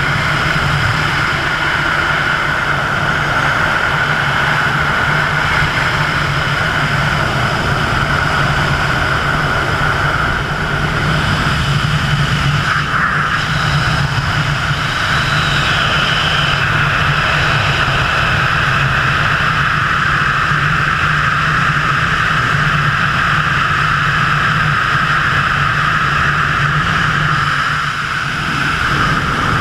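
Steady loud wind roar across a helmet camera's microphone in skydiving flight, with brief small dips about twelve seconds in and near the end.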